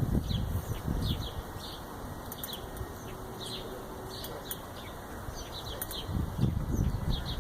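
Birds chirping in short, quick calls, scattered throughout, over a low rumble of wind or handling noise that is stronger at the start and again about six seconds in.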